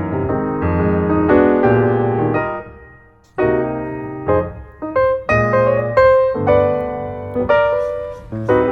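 Background music played on piano: chords and melody notes struck one after another, with a short drop almost to silence about three seconds in before the playing resumes.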